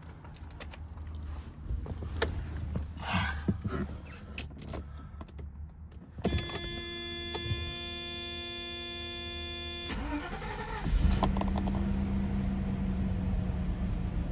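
Cold start of a 1989 Mercedes-Benz 560 SEC's 5.6-litre V8: a few clicks, then a steady electric whine for about four seconds, and the engine catches about eleven seconds in and runs at a steady fast cold idle.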